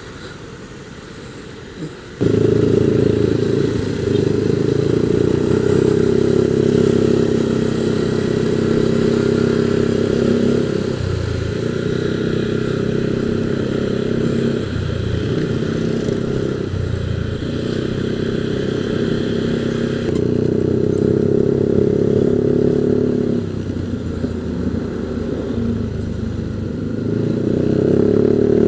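Yamaha Aerox 155 VVA scooter's single-cylinder engine, running through an aftermarket exhaust, pulling steadily under way. It comes in suddenly and loud about two seconds in and drops away briefly a few times.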